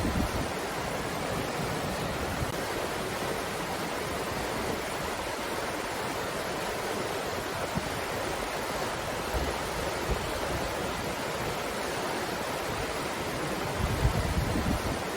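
Breeze blowing as a steady rushing hiss, with a few low gusts buffeting the microphone, the strongest near the end.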